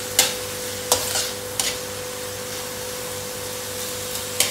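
Diced pork sizzling steadily in a little oil in a wok while a metal spatula stirs it, scraping the pan four times. The pork is being toasted until it browns.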